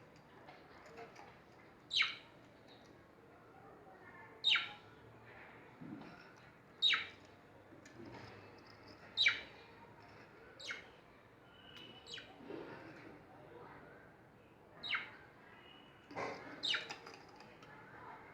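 A pet bird giving single sharp chirps, each sweeping quickly down in pitch, repeated about every two seconds.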